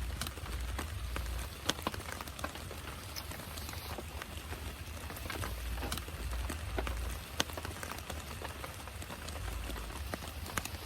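Heavy rain falling, with individual drops landing in sharp taps over a steady hiss and a low, uneven rumble beneath.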